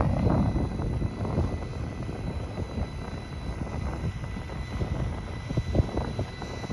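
Radio-controlled model L-39 jet's engine running at low power with a steady high whine that rises slightly at the start, over wind noise.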